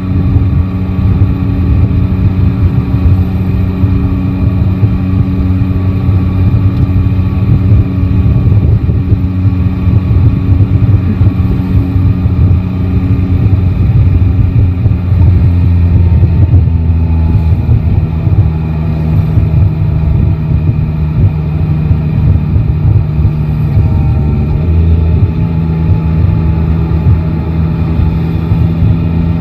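Yamaha Tracer 9 GT's inline three-cylinder engine running at low, steady revs while riding in city traffic. Its note steps to a new pitch a few times: near the middle and again about three quarters of the way through.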